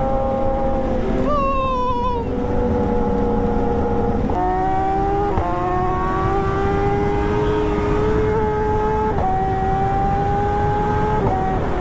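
Engine of a vehicle heard from on board while under way, running steadily with its pitch creeping up and shifting abruptly several times, as at gear changes. A brief wavering higher sound comes in a second or so in.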